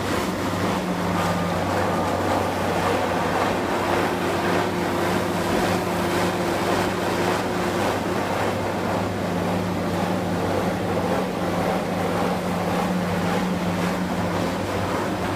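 Heavy demolition machinery's engine running steadily, a constant low hum over a dense rumble of noise.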